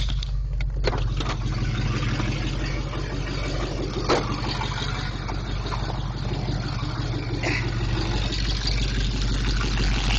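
1977 Oldsmobile Delta 88's engine idling steadily, warming up after a cold start from two days sitting. There is one sharp click about four seconds in.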